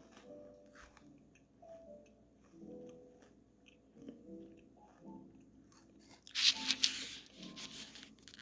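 Biting and chewing a Nature Valley crunchy oats and dark chocolate granola bar: a loud run of dry crunches about six seconds in, lasting under two seconds.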